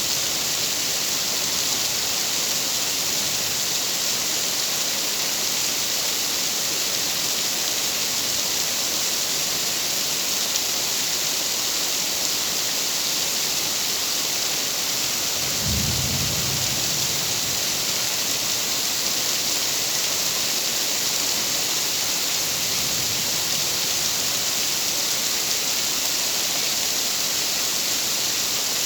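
Steady, dense rainfall hissing evenly. A brief low rumble of thunder comes about halfway through, and a fainter one a little later.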